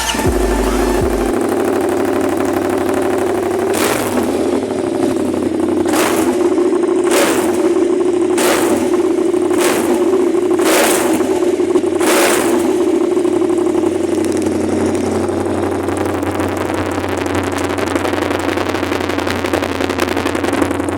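Yamaha MT-07's parallel-twin engine idling through an aftermarket SC Project-style replica exhaust, revved in seven short throttle blips between about four and twelve seconds in, then settling back to a steady idle.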